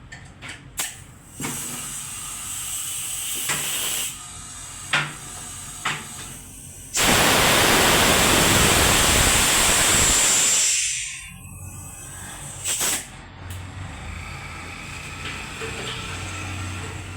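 Scattered clicks and knocks, then a loud hiss of pressurised air or spray lasting about three and a half seconds, which fades out.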